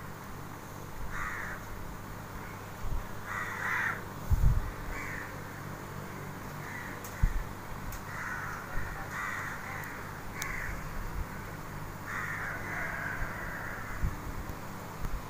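A bird calling again and again in short calls, with a longer run of calls about twelve seconds in. Underneath is a steady low hum, with a few dull thumps.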